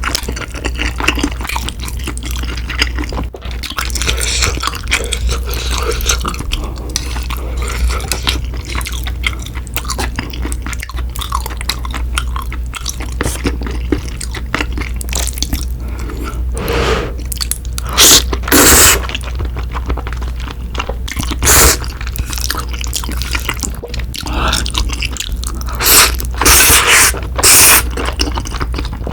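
Close-miked eating sounds: steady wet chewing, with loud crunching bites of deep-fried Korean twigim, clustered in the second half. A low steady hum runs underneath.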